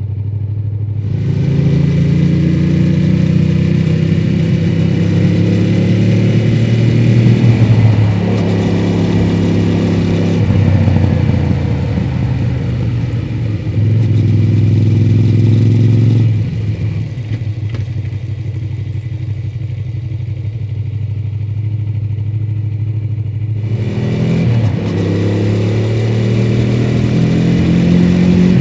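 2006 Honda VTR250's 90-degree V-twin through its stock muffler, pulling away and accelerating through the gears, the pitch climbing and dropping back at each shift. It then runs off the throttle at lower revs for several seconds before pulling hard again near the end.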